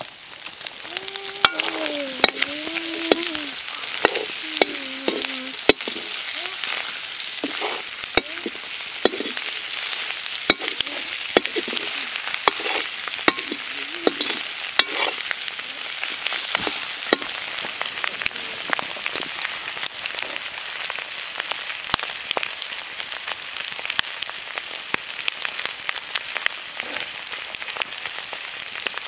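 Chicken curry sizzling in a hot pan as it is stirred, with frequent sharp clinks and scrapes of the spoon against the pan. The sizzle builds up about a second in.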